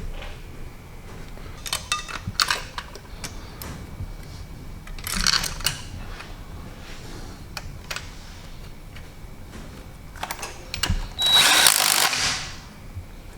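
Tool work on an engine being assembled: scattered clicks and metal knocks, with short bursts of a tool about two and five seconds in, and a louder noisy burst of about a second near the end.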